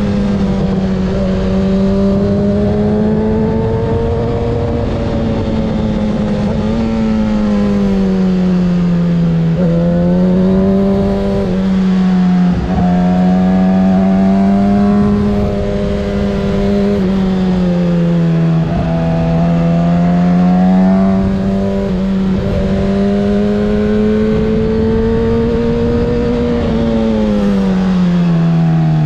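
2024 Kawasaki ZX-6R 636's inline-four engine through a Graves exhaust, running at steady high revs, its pitch rising and falling gently with the throttle. The revs dip briefly about twelve seconds in and fall away near the end.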